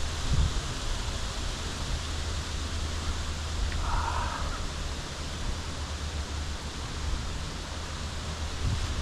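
Strong wind blowing and buffeting the microphone: a steady rushing noise with a low rumble. A short, higher-pitched sound lasting about half a second comes about four seconds in.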